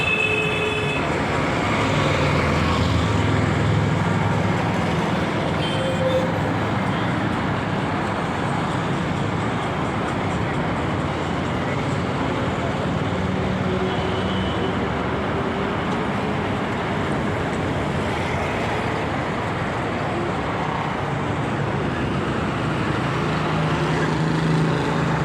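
Steady road traffic noise, a continuous hiss with a low engine hum that swells and fades.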